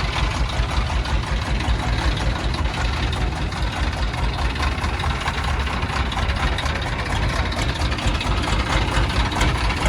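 Fishing boat's engine running steadily at a low, even idle.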